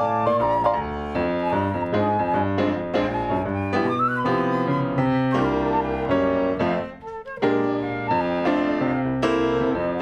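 Piano duet playing a swing jazz standard, chords and melody together, with a brief break about seven seconds in before the chords come back.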